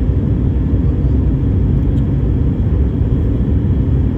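Steady low rumble of a Boeing 737 in flight, the engine and airflow noise of a jet airliner heard from the passenger cabin during the descent.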